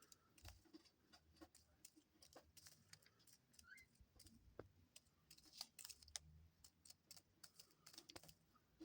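Faint, rapid, irregular clicking of a dove's beak pecking seeds off a foxtail millet spray.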